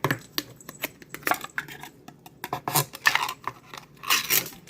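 Clicks, clinks and short scrapes of dishes, utensils and food containers being handled while cat food is prepared, with a longer rustle or scrape near the end.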